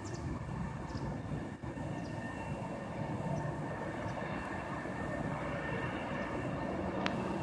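EP20 electric locomotive and its double-decker passenger train approaching at low speed: a steady rumble of the running train with a faint steady whine above it, and one sharp click near the end.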